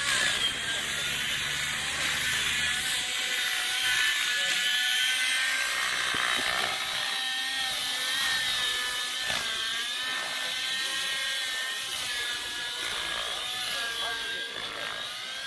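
Radio-controlled model helicopter flying aerobatics: a high whine from its motor and rotors that keeps rising and falling in pitch as it manoeuvres.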